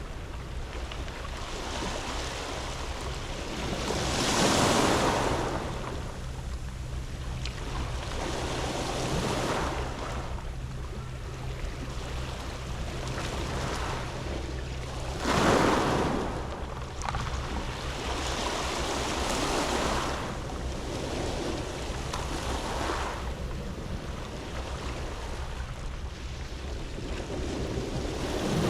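Sea waves breaking and washing onto a round-pebble beach, swelling and fading in surges, the biggest about four seconds in, halfway through and at the end. A low wind rumble on the microphone runs underneath.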